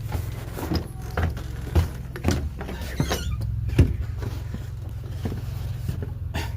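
A vehicle running with a steady low drone, with irregular knocks and rattles over it.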